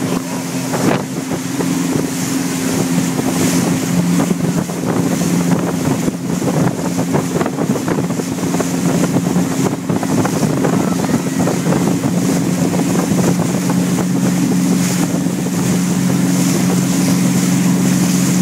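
Motorboat engine running steadily at speed while towing, with wind buffeting the microphone and water rushing past the hull.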